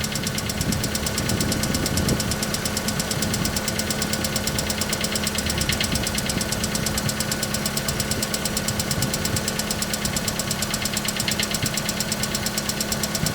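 Hyundai Accent MC engine idling with a fast, even rattling tick from its camshaft timing chain. This is chain knock on a cold start, which goes away once the engine warms a little.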